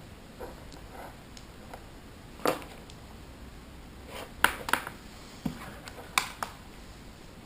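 Hobby servo jittering while held at its neutral 1.5 ms signal with no stick input: irregular short clicks and brief buzzes, the loudest about two and a half seconds in, twice around four and a half seconds, and once near six seconds. It is unwanted noise from a servo that should be still.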